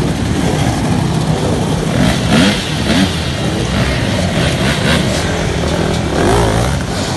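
Motocross dirt bike engine running and revving, its pitch rising in short climbs about two and three seconds in and again near the end.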